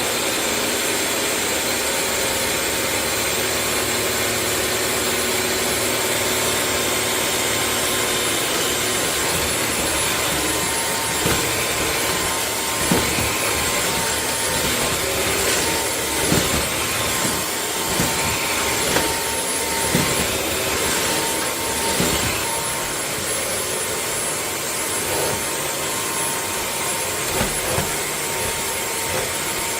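Cordless wet-dry floor vacuum running: a steady rush of air with a constant high whine from the motor, and scattered knocks and bumps through the middle stretch as the head is worked over the floor.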